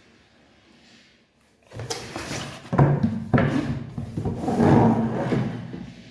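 Cardboard packaging being handled: scraping and rubbing of box against box, with two sharp knocks, starting about two seconds in.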